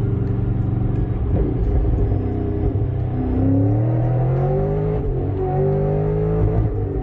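C6 Corvette V8 engine accelerating hard under full throttle. It runs steadily for about three seconds, then revs climb, dip briefly about five seconds in, climb again and drop near the end. The rear wheels are spinning on the snowy road as it pulls.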